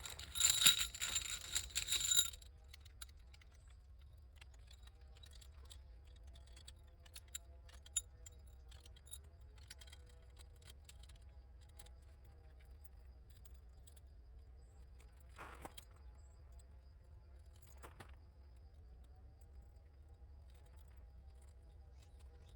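Metal jingling, like a bunch of keys or small metal gear being shaken, for about two seconds near the start. After that it is quiet, with a few faint clicks and light handling noises.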